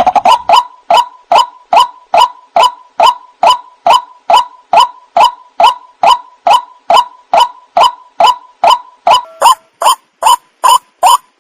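White-breasted waterhen (ruak-ruak) calling: a loud, monotonous series of short, identical call notes repeated evenly, a little over two a second, as used as a lure call.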